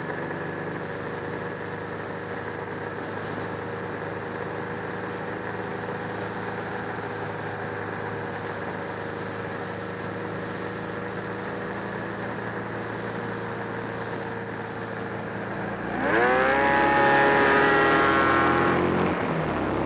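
Arctic Cat Thundercat 900 three-cylinder two-stroke snowmobile engine in a custom motorcycle, running steadily. About 16 seconds in it is revved sharply, holds high for a couple of seconds, then drops back.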